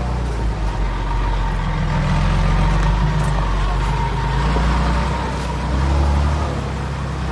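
Heavy diesel engine of earthmoving machinery running steadily, deep and low, with a thin steady whine above it; the engine note swells and eases slightly a few times.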